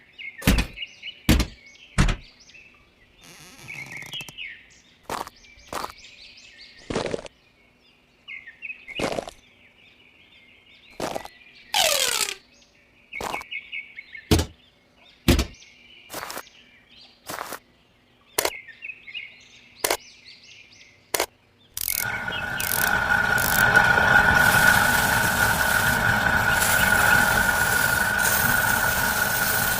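Irregular sharp clicks and knocks, about one a second, mixed with short chirps. About 22 seconds in, a small motor starts running, a steady machine noise with a constant whine.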